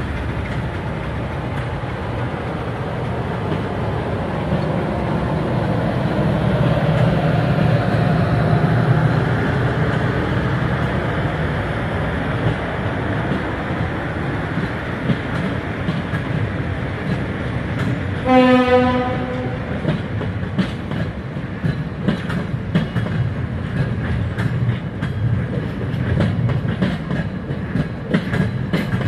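Diesel locomotive and its train running by with a steady rumble that swells about a third of the way in. About two-thirds through the locomotive sounds one short horn blast, then the wheels clatter over rail joints in a quick clickety-clack.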